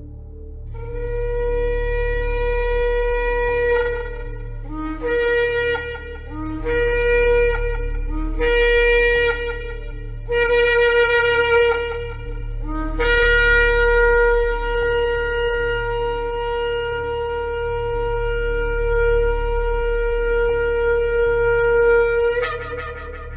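Shofar blasts: one held blast of about three seconds, then four short broken blasts each stepping up from a lower note, then one long blast of about nine seconds that ends with a brief upward slide. A steady low hum runs underneath.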